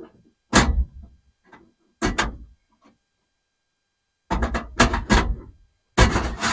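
Clunks, knocks and rattles of hard plastic and metal parts being handled: a car stereo head unit being worked back into its dash opening, in short bursts with the busiest clatter near the end.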